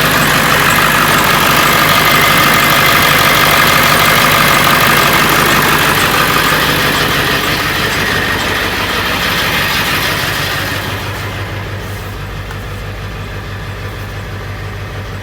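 Ford 7.3 L Powerstroke V8 turbodiesel running, loud at first and then settling to a quieter, steady idle about eleven seconds in. It is running again with a new fuel pump relay in place of the corroded one that was taken for the cause of the no-start.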